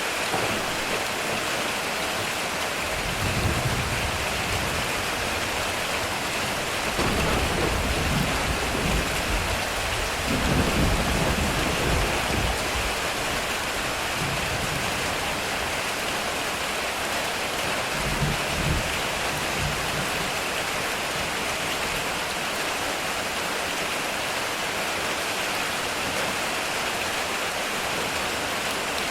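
Heavy rain pouring steadily on a metal roof, with low rolls of thunder: a short rumble a few seconds in, a longer, louder roll through the middle, and a brief one about two-thirds of the way through.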